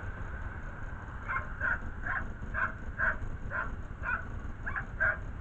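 A dog barking repeatedly, about two barks a second, over a steady low rumble.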